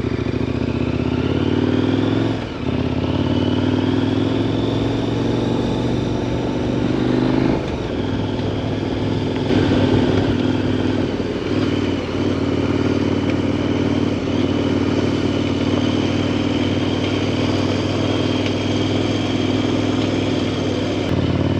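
KTM 1090 Adventure R's 1,050 cc LC8 V-twin running steadily under way. Its note dips briefly three times and climbs again, as the bike accelerates through the gears.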